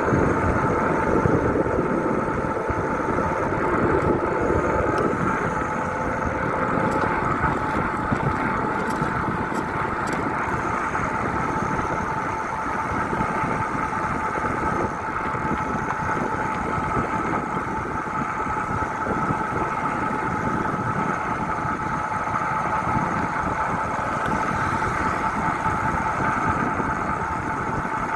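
Motorcycle engine running at a steady, unchanging speed, with a constant rumble and a steady hum.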